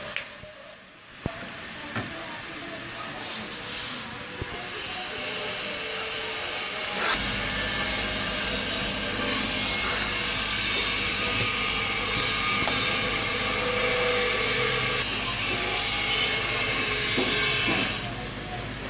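Hot-air rework station blowing a steady hiss while an IC is heated off the meter's circuit board for replacement. It comes in about four and a half seconds in, grows fuller about seven seconds in, and cuts off near the end.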